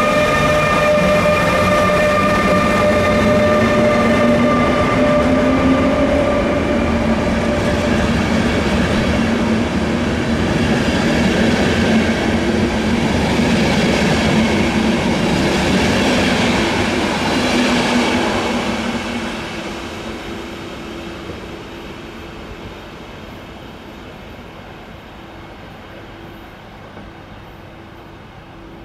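Electric train passing through a station: steady whining tones from its traction equipment slowly fall in pitch over a continuous wheel-on-rail rumble. The sound stays loud for about two-thirds of the time, then fades steadily as the train draws away.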